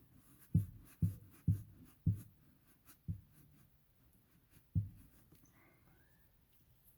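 A series of soft, low thumps, six in about five seconds at uneven spacing, each dying away quickly.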